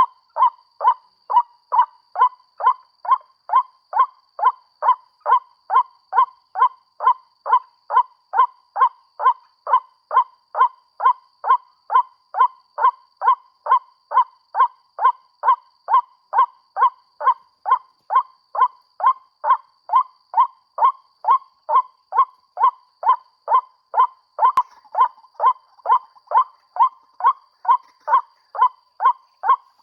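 Recorded white-breasted waterhen call played on a loop from a bird-caller speaker as a lure for snares: the same 'ruak' note repeated evenly about twice a second, with a faint steady high tone underneath.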